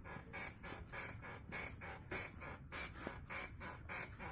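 Parking brake cable squeaking in short, faint repeated squeaks, about three a second, as the car body is rocked on its suspension. The cable is rubbing against the body and wearing into the metal, not a strut.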